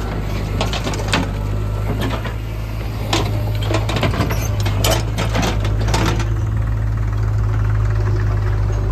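Diesel engine running steadily. Irregular clattering knocks come over roughly the first six seconds, then die away, leaving the engine alone.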